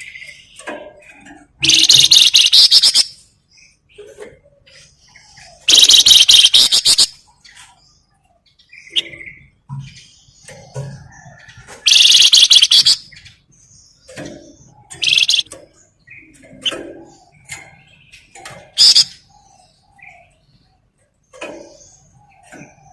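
Flamboyan songbird singing: loud, fast rattling chatter bursts about a second long, three of them spaced several seconds apart and then two shorter ones, with softer scattered chirps in between.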